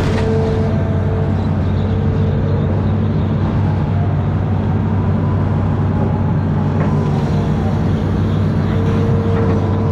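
Amphibious excavator's diesel engine running steadily, with a higher steady whine at the start that drops out and returns near the end.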